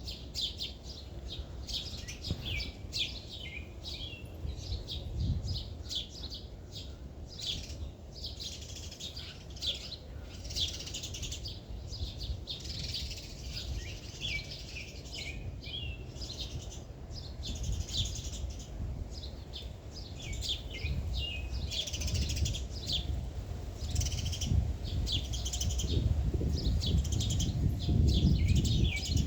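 Small birds chirping, many short, high chirps overlapping without pause. A low rumble underneath grows louder over the last few seconds.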